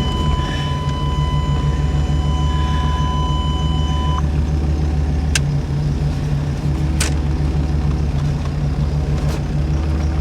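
Truck engine running steadily at idle. A steady high beep sounds over it and stops about four seconds in, and a few sharp clicks come later.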